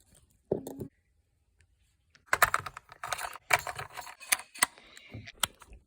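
Clicks and rustling of hands handling a small LiPo battery and its charger while connecting it to charge. A quiet start, then a busy run of sharp plastic clicks from about two seconds in.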